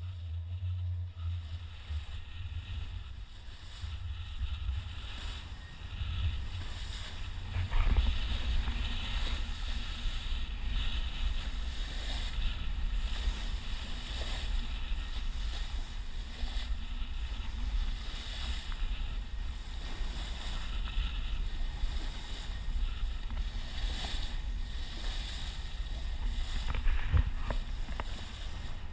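Wind buffeting the microphone and water rushing past the hull of a sailing yacht under way, with a steady deep rumble underneath and uneven gusts throughout.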